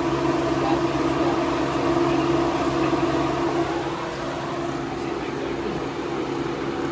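Electric radiator cooling fans on a 1999 Toyota Camry running steadily, a constant whir with a hum under it, newly wired to run from a switch.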